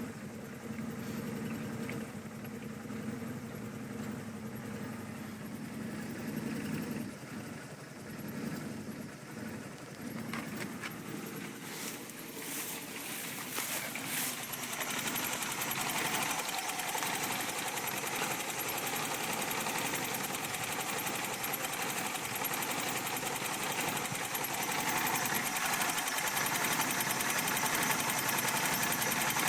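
Suzuki Wagon R MC22S's 660 cc three-cylinder engine idling roughly and shaking hard, running close to stalling, the sign of a misfire-type fault with the engine warning lamp on. The sound grows louder and brighter about halfway through, with a few sharp clicks just before.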